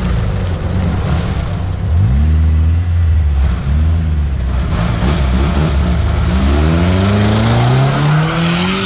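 Off-road vehicle engine under load, revving up about two seconds in and then climbing steadily in pitch over the last few seconds as it accelerates.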